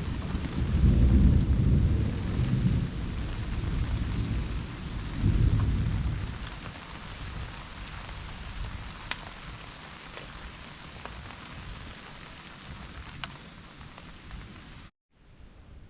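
Thunder rumbling over steady rain, the rumble rolling in several swells and dying away after about six seconds to leave the rain hiss with a few sharp drip taps. The sound cuts out briefly near the end and comes back fainter.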